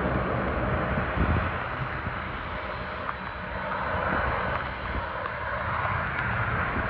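Jet airliner engine noise, a steady rumble, with wind buffeting the microphone.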